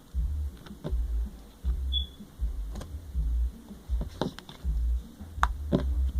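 Slime being worked by hand close to the microphone: repeated low bumps of handling with scattered sharp clicks and pops.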